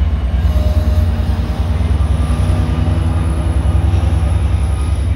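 Sound Transit Sounder diesel commuter train pulling slowly into the platform, its locomotive engine running with a steady low rumble.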